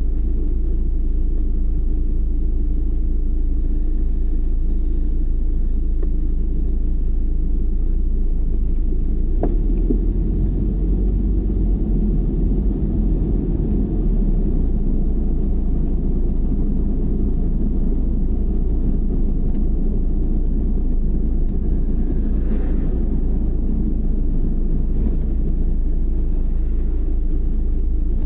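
Car driving along a road: a steady, low rumble of road and engine noise, with a single brief click about nine and a half seconds in.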